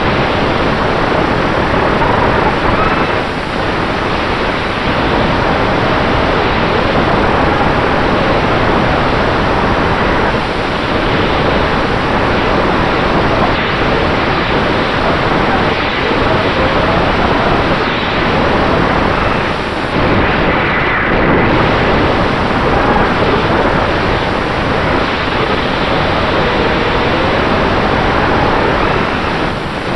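FPV quadcopter in flight, heard through its onboard camera: Dragonfly Hurricane 2207 2500KV brushless motors spinning Dalprop T5046C props make a loud, steady rush of wind and prop noise. A faint motor whine glides up and down in pitch as the throttle changes.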